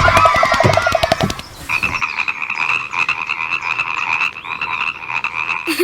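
Frogs croaking in a fast, rattling trill: a lower trill for about the first second and a half, then a higher, steady trill.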